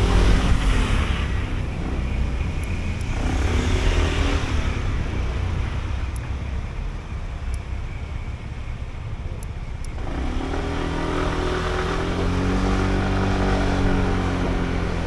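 Sym Jet X 125 scooter's single-cylinder 125 cc engine accelerating in traffic. Its note rises near the start and again briefly, then eases off, and climbs again about ten seconds in.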